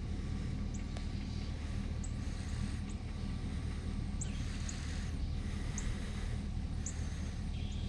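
Short, high bird chirps, about eight scattered over several seconds, over a steady low rumble.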